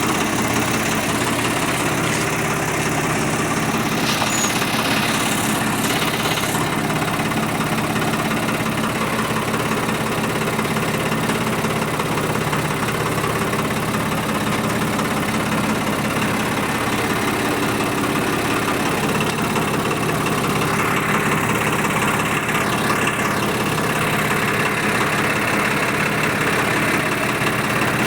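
Swaraj 855 tractor's three-cylinder diesel engine running steadily at a constant speed.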